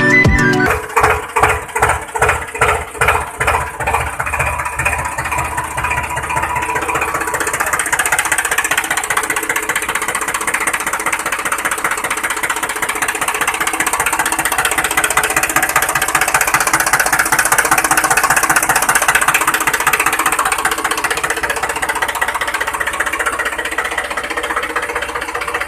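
Small tractor engine chugging: distinct slow beats for the first few seconds, then settling into a fast, steady run. The end of a music track is heard briefly at the very start.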